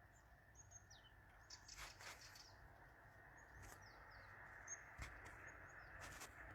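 Faint birds calling: short, high chirps that slide downward, repeated every second or so, with a few soft knocks in between.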